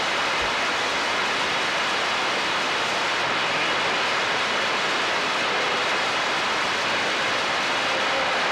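Steady hiss of static from a CB radio receiver on an open channel with no station transmitting, with a few faint tones that come and go.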